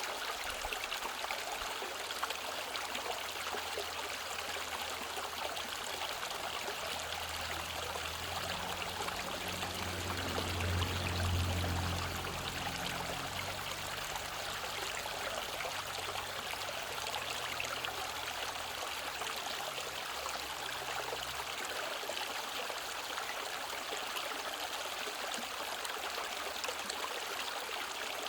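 Mountain valley stream rushing and trickling steadily over rocks. Under it, a low drone swells to a peak about eleven seconds in and fades away by about twenty seconds.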